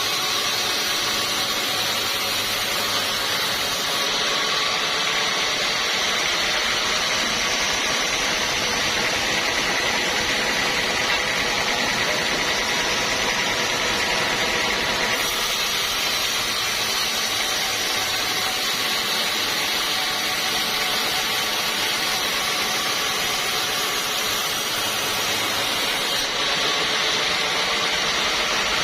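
Sawmill running steadily, a loud, even machine noise without pauses.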